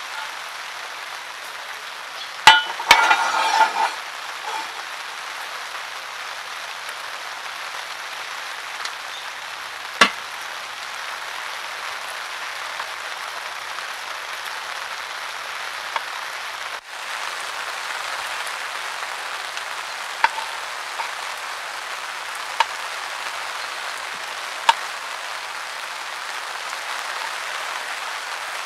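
Food sizzling on a grill, a steady hiss, with a burst of metal clinks and scraping from utensils about three seconds in and single clinks now and then afterwards.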